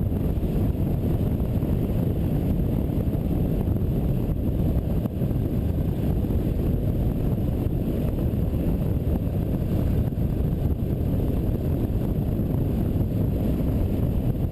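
Steady low rumble of wind buffeting the microphone on a moving Yamaha Serow 250 motorcycle, with the engine blended into the noise.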